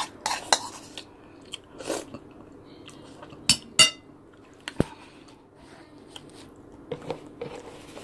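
Close-up eating sounds: chewing and lip smacks, broken by a few sharp clicks. The loudest is a pair of clicks with a short ring about three and a half seconds in, followed by a dull knock about a second later.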